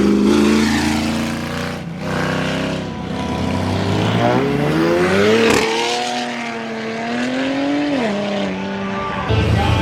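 Modified cars accelerating hard past, engines revving and climbing in pitch. One engine climbs to a peak about five and a half seconds in, holds its note, then drops off near eight seconds.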